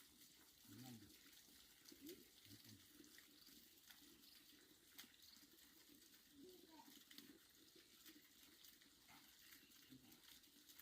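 Near silence, with faint, distant voices now and then and a few light clicks.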